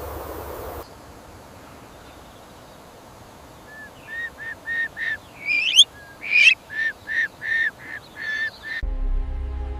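A bird calling: a run of about a dozen short, repeated honking notes, with two louder shrieks that rise sharply in pitch in the middle. Music comes in near the end.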